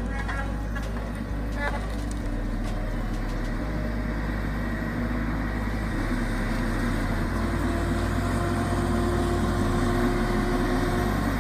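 Heavy diesel engine of a tracked feller buncher running steadily, with a couple of knocks in the first two seconds and a steady drone coming in about halfway through.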